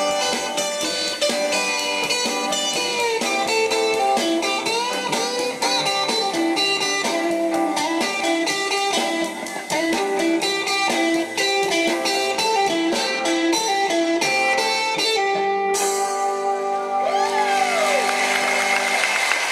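Electric guitar solo: fast runs of picked notes with string bends, then, about sixteen seconds in, a few long held notes with a slow bend.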